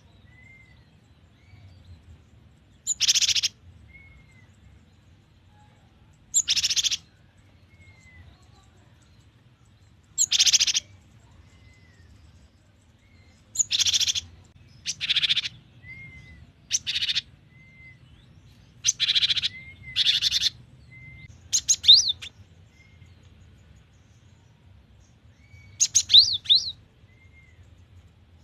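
Cinereous tit (gelatik batu) singing: short bursts of rapid, high notes every two to four seconds, with soft single notes between them. The last bursts, about three quarters of the way in and near the end, carry sharp up-and-down notes and are the loudest.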